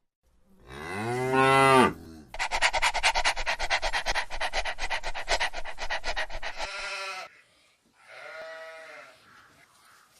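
An animal calling: a drawn-out call that rises and falls in pitch, then several seconds of rapid, evenly pulsed calls, a short call, and a fainter rising-and-falling call near the end.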